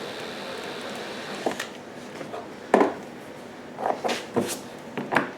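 A few separate sharp clicks and knocks, the loudest near the middle: a fuel inlet fitting being test-fitted into a freshly step-drilled hole in a generator's plastic housing to check the hole's size.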